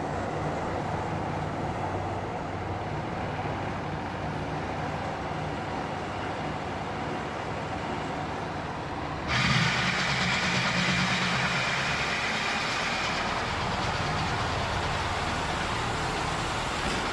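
Farm machinery running steadily, an engine drone with a low hum. About nine seconds in it changes abruptly to a louder, brighter running noise.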